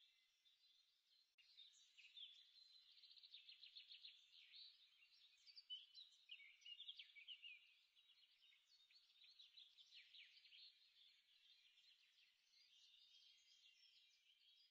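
Faint birdsong: quick chirps and trills, stepping up about a second and a half in.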